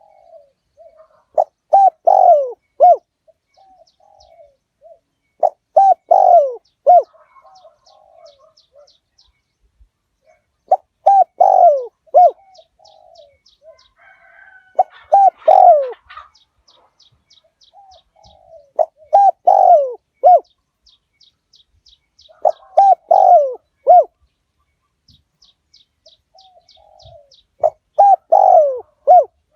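Spotted dove cooing: a loud phrase of three or four coos, repeated about every four seconds, with softer coos between the phrases. A faint, rapid, high-pitched ticking runs behind it.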